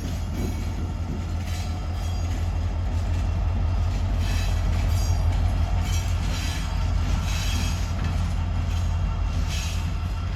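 Train passing: a steady low rumble with irregular bursts of higher-pitched wheel and rail noise every second or so.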